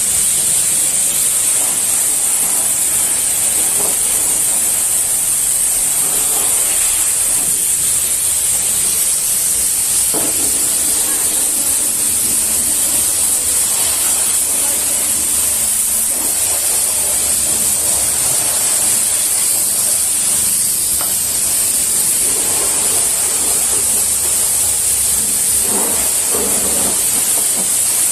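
High-pressure water spray hissing steadily at a car wash, as from a pressure-washer wand.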